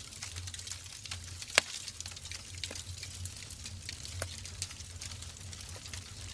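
Wood fire burning in a fireplace, crackling with irregular small snaps and one sharp loud pop about a second and a half in, over a steady low rumble and hiss.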